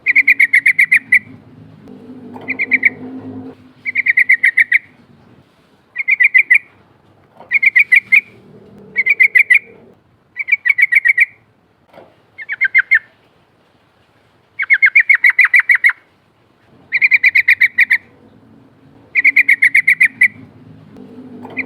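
A yellow-vented bulbul (trucukan) singing its long rolling call: loud bursts of rapid, bubbling chirps, each about a second long, repeated roughly every two seconds.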